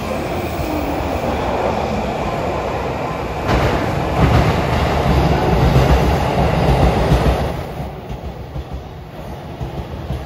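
E233-3000 and E231-1000 series electric commuter train arriving at a platform. Its rumble grows louder about three and a half seconds in as the cars run close past, then falls back to a quieter, uneven wheel clatter as the train slows to stop.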